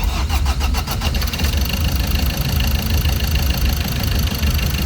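Ford Ranger T6's 2.2 four-cylinder diesel engine starting abruptly and settling into steady running. The feed line to injector number 1 is blanked off, so the engine fires without that cylinder: the sign that injector 1 was leaking the rail pressure and causing the crank-no-start.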